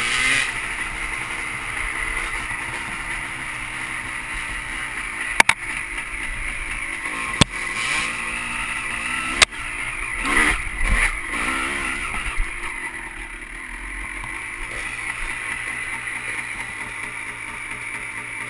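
Dirt bike engine running with wavering revs, with three sharp knocks about two seconds apart in the middle and a short rise in revs just after; the engine settles a little quieter in the latter part.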